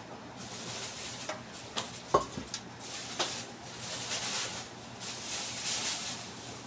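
Kitchen clatter: a few sharp clinks and knocks of a pot and cooking utensils, the loudest about two seconds in, over a soft hiss.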